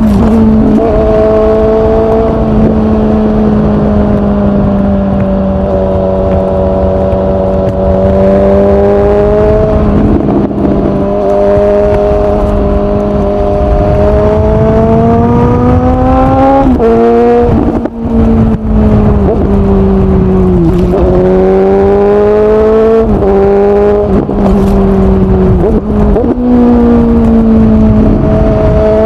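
Suzuki GSX-S750's inline-four engine through a Yoshimura SQ11 exhaust with no dB killer and the catalytic converter removed, running under way at moderate revs that rise and fall with the throttle. A little past halfway the revs drop sharply and climb again, and near the end they climb.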